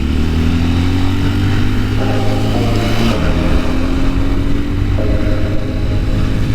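Bashan Brozz 250 dual-sport motorcycle engine under way, its pitch climbing as it pulls, dropping at a gear change about three seconds in, then climbing again.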